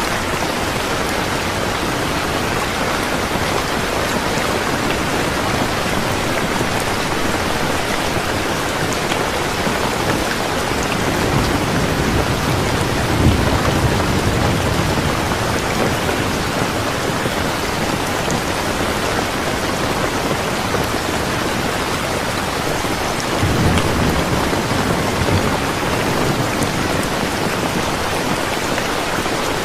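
Steady rain falling, with two low rolls of thunder, the first a little under halfway through and the second about three quarters of the way in.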